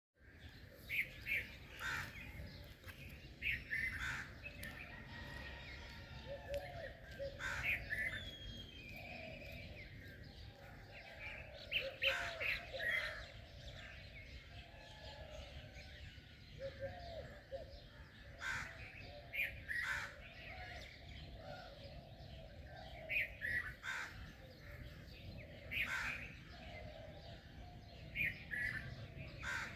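A chorus of several birds chirping and calling, with short high chirps coming every second or two and lower warbling calls in between.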